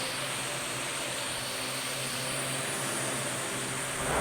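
Parrot AR.Drone 2.0 quadcopter's four electric motors and propellers running steadily: an even whir with a low hum and a thin high whine above it.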